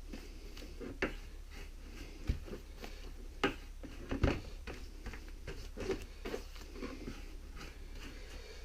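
Handling noises: a few light knocks and clatters at irregular moments, with some rustling and scuffling between them, over a low steady hum.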